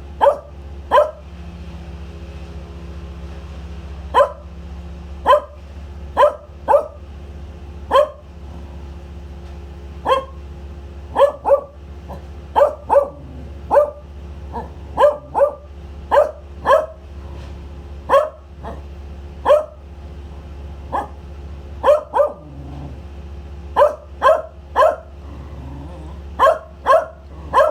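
A dog barking over and over, single barks and quick pairs at roughly one a second, with a steady low hum underneath.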